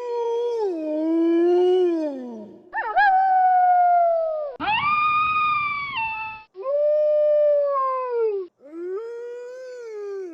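Wolves howling: about five long howls follow one another, each sliding up or down in pitch. Several stop abruptly, and the loudest comes near the middle.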